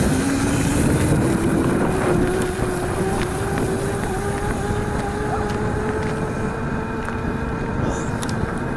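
Razor MX400 electric dirt bike's motor whining, its pitch rising steadily as the bike speeds up, with wind rushing over the microphone.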